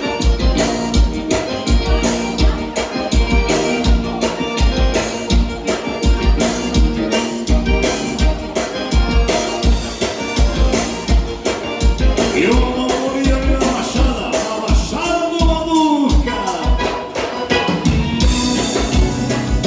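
Live gaúcho dance music from an accordion-led band, with a steady drum beat of about two kicks a second. A held, gliding melodic line stands out from about twelve seconds in, then falls off near sixteen seconds.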